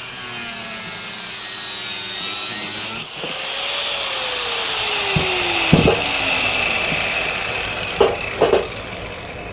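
Power tool cutting into a ceiling fan's metal motor housing. It cuts out briefly about three seconds in, runs again with its pitch slowly falling as it fades, and a few sharp metal knocks come near the end.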